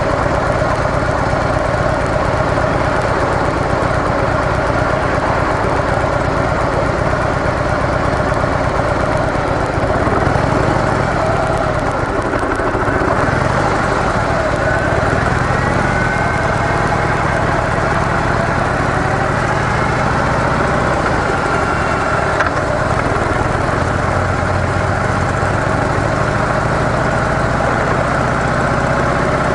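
Harley-Davidson CVO Softail Deluxe's V-twin engine running through its stock mufflers: a steady engine note with small shifts in pitch.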